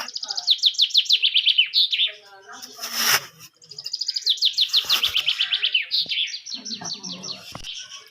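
A songbird singing rapid trills of short, falling chirps in about three runs. A brief rustling noise comes near the middle.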